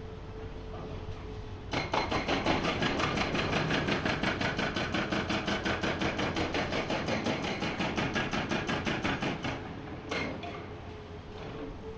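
Hydraulic rock breaker on a Komatsu PC490 excavator hammering rock: after a couple of seconds of the machine running, a rapid, even run of blows, about nine or ten a second, for nearly eight seconds. It stops, then gives a short burst near the end.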